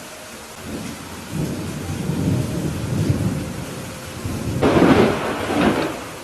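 Rolling thunder over steady rain: a low rumble builds about a second in and rises to a louder crackling peak near the end before dying away, with the hiss of rain continuing throughout.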